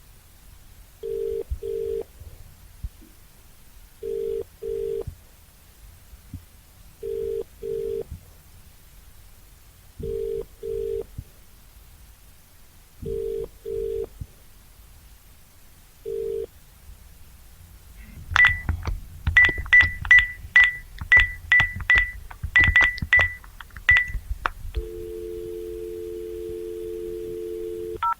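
Telephone ringback tone: a double 'brr-brr' of two low tones, repeating every three seconds about six times and cut short on the last ring. Then comes a run of sharp clicks with short high beeps, and a steady dial tone for the last few seconds.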